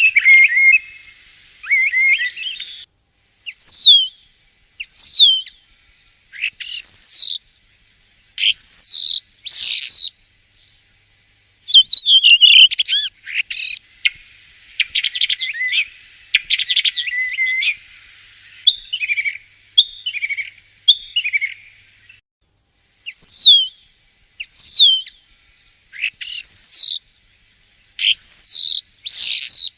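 Common starling singing: a varied run of thin falling whistles and squeaky, chattering phrases, with a long buzzing rattle near the middle.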